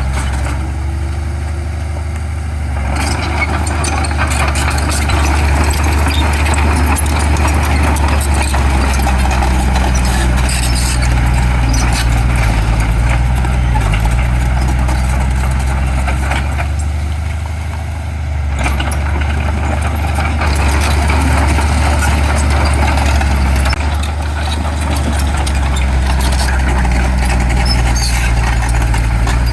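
Heavy diesel earthmoving machinery running steadily, a deep continuous engine note with noisy clatter over it that eases briefly twice.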